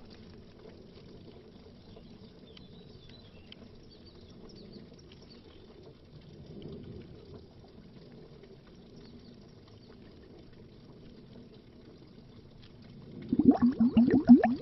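Underwater air bubbles, faint and low-pitched for most of the stretch with a brief swell near the middle, then dense, loud bubbling near the end.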